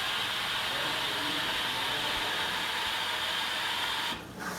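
Water hissing steadily as it flows in through the softener inlet valve of a Simpson top-loading washing machine, opened in diagnostics mode to test the valve. The hiss drops away briefly near the end.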